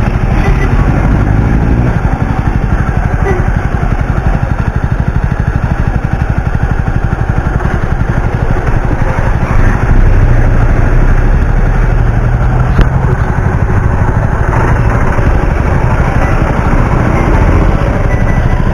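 Jawa 42 single-cylinder motorcycle engine running steadily with a fast, even firing pulse, getting a little louder about ten seconds in.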